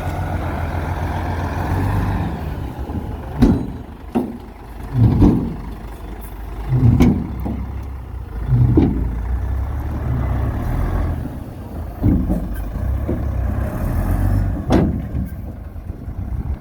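Heavy diesel construction machinery running with a steady low rumble, broken by about seven loud clunks and thuds at uneven intervals.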